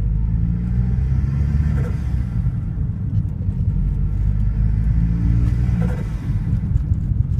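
Vauxhall Zafira GSi's turbocharged engine running with a heavy low rumble, rising in pitch twice, each time ending in a short burst. It carries the strange noise that the owner cannot identify.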